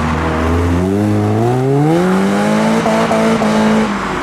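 A modified car accelerating hard away from the meet exit. The engine and exhaust revs climb steeply for about a second, hold high for about two seconds with a few brief stutters, then drop near the end.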